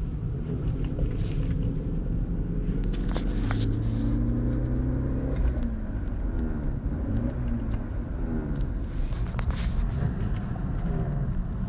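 BMW E46 318i's N42B20 four-cylinder petrol engine running, its pitch rising and falling over and over, with a few short sharp clicks about three seconds in and again near nine seconds. It is the car's strange noise, not yet identified.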